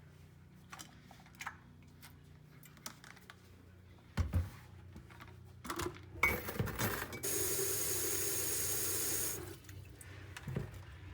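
Small clicks and knocks, then a clatter, then water running for about two seconds before it is shut off.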